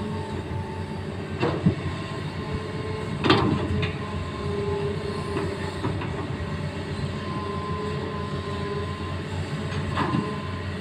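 Hitachi hydraulic excavator running, its engine droning steadily under a faint hydraulic whine, with several sharp metallic clanks; the loudest comes about three seconds in.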